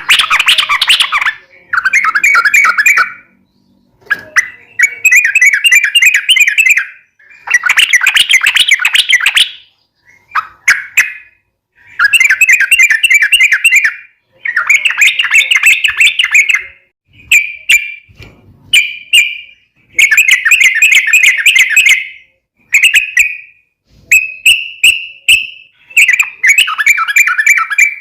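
Yellow-vented bulbul (trucukan) singing in loud, rapid, bubbling phrases of one to three seconds, about ten of them with short pauses between. This is the long chattering song that keepers play to get their own birds to sing back.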